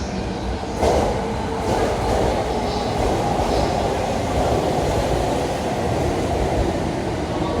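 Electric commuter train running into the station platform, a steady rumble of wheels on rails that grows louder about a second in and holds.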